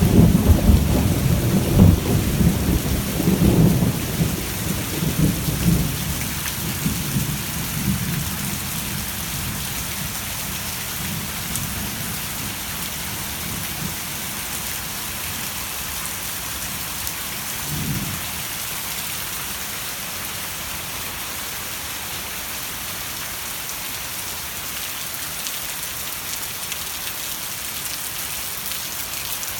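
Heavy rain falling steadily, with a long rolling rumble of thunder that fades over the first six seconds or so and a short low rumble about eighteen seconds in.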